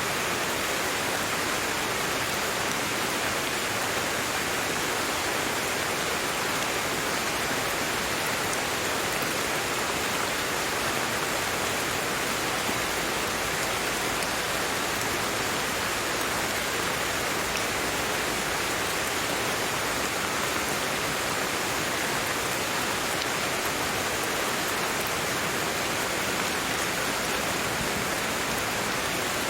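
Steady rainfall, an even hiss of rain without pauses or distinct drops standing out.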